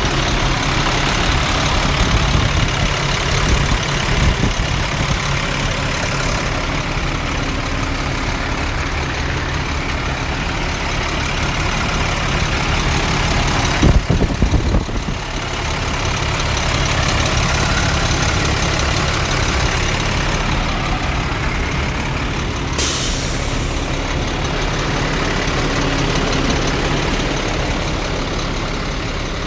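2006 International 4400 truck's diesel engine idling steadily, with a loud clunk about halfway through and a short burst of hiss about two-thirds through.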